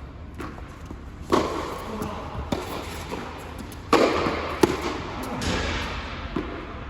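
Tennis rally: the ball struck by racquets and bouncing on the court, a sharp knock every second or two, the two loudest hits about 1.3 s and 4 s in, each followed by a brief ring.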